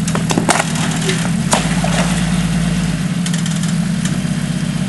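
Off-road rig's engine idling steadily at low revs, with a few sharp clicks or knocks in the first second and a half.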